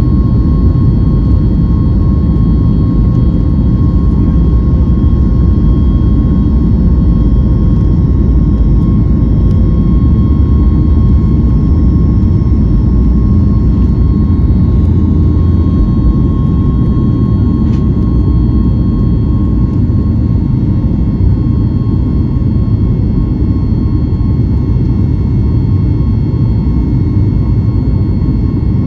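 Steady cabin noise of a Boeing 737 MAX 8 in flight: the CFM LEAP-1B jet engines and rushing air make a loud, even rumble, with a faint steady hum above it.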